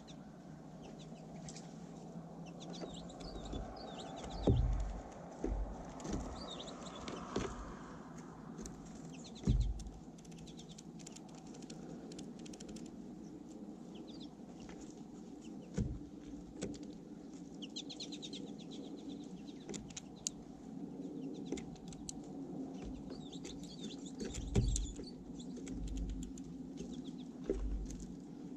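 Small songbirds chirping and chipping at a bird feeder, in short scattered calls, over a steady low background rumble. Several low thumps come through, about five seconds, ten seconds and near the end.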